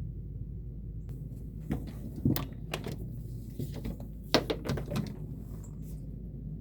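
A scattered series of short, sharp clicks and knocks, loudest about two seconds in and again about four and a half seconds in, over a steady low rumble.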